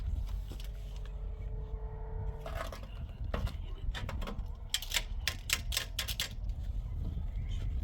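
A short steady hum, then a quick run of sharp taps or knocks, about a dozen over three seconds, over a low steady rumble.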